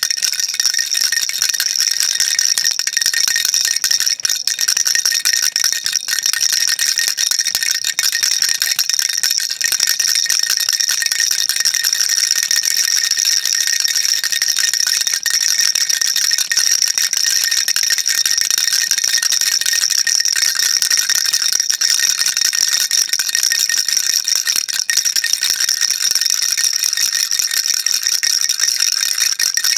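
Baby rattle shaken continuously, a dense, bright, steady rattling with no pauses.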